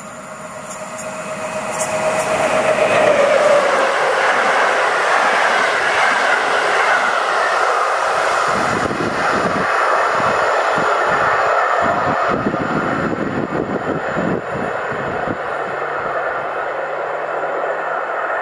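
Electric passenger train passing: its rumble swells over the first few seconds, with a hum that drops in pitch as it goes by. Then the wheels' rattle on the rails carries on, slowly easing as the train draws away.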